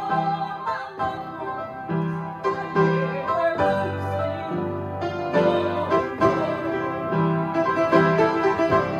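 Instrumental gospel music led by piano or keyboard, with a bass line moving under sustained chords and no singing: an instrumental stretch between sung lines.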